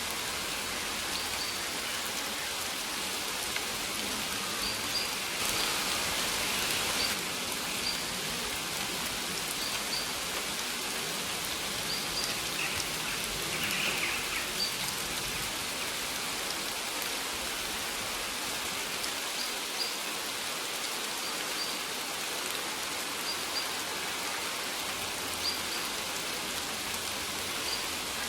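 Steady rain falling, with short, faint, high bird chirps here and there over it. There is a brief louder hiss about six seconds in.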